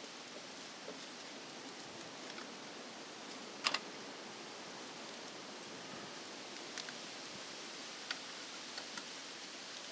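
Light clicks and taps from hands working small tools and wiring, over a steady hiss; a sharp double click about four seconds in is the loudest.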